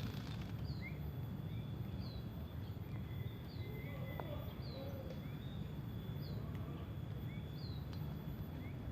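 A bird giving short, high chirps that fall in pitch, repeating about once or twice a second, with a few lower rising chirps in between, over a low rumbling background.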